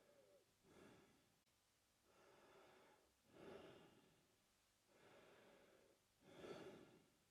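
A man breathing slowly and faintly through his mouth. The louder and softer breath sounds alternate, a little under three full breaths in all, each one a soft airy rush.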